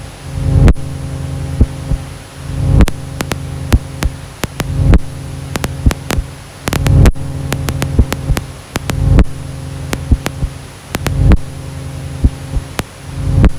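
Ambient noise music: a low droning hum that swells in a slow pulse about every two seconds, scattered with sharp clicks and crackles and a faint steady high whine.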